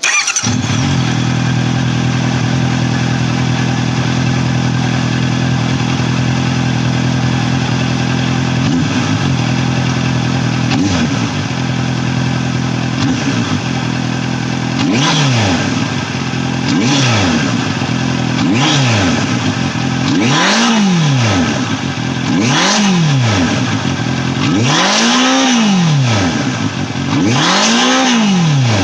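Honda CBR650R inline-four motorcycle engine idling steadily through its exhaust. From about nine seconds in it is revved in a series of throttle blips about every two seconds, each rising and falling in pitch, the later ones reaching higher revs.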